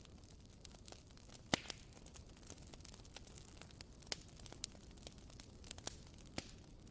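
Wooden-wick (WoodWick) candle crackling like a small campfire: irregular sharp pops and ticks, the loudest about one and a half seconds in, over a faint steady hiss.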